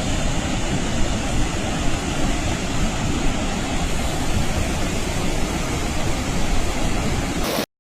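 Steady roar of rushing floodwater with a heavy low rumble, cutting off abruptly near the end.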